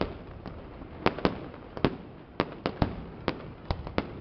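Aerial fireworks shells bursting in a rapid, irregular string of sharp bangs, about a dozen in four seconds.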